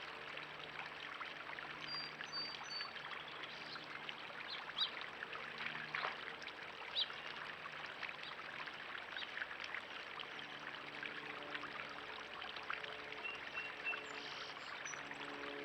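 Water trickling and splashing steadily into a backyard pond, with a low hum that comes and goes. A few short, high bird chirps come about two seconds in and again near the end.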